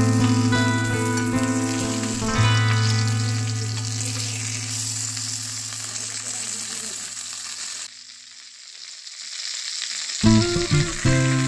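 Banana-leaf-wrapped pomfret parcels sizzling as they fry on a hot flat griddle, a steady hiss, under background music of sustained notes that slowly fade. Both drop away sharply about eight seconds in and return about two seconds later.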